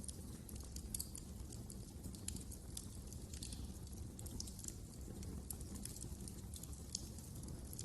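Wood fire crackling: frequent irregular sharp pops and snaps over a low, steady rumble of burning flames.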